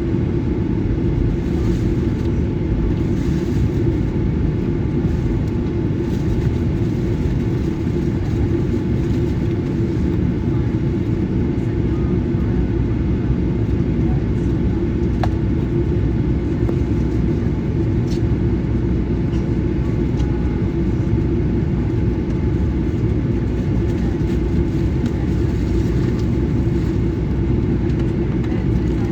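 Steady low rumble inside the cabin of a Boeing 737-900ER, from its CFM56-7B turbofan engines.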